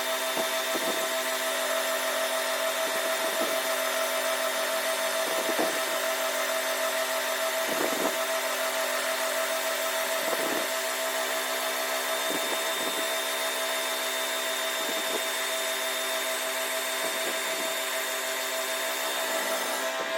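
A shop power tool or machine tool running steadily at constant speed, with a brief swell of cutting or grinding noise every two to three seconds.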